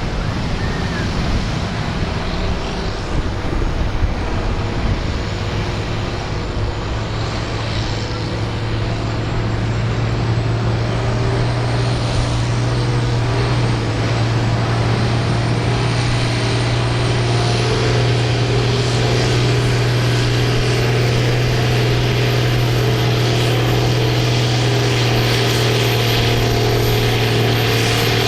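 Farm stock tractor's diesel engine running hard at a steady pitch while pulling the sled, with a thin high whine that climbs slowly in pitch and a little more loudness in the second half.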